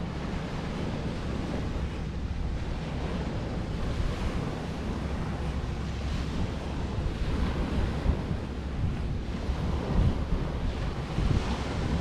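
Wind buffeting the microphone over ocean surf washing onto the beach, the waves swelling and easing now and then.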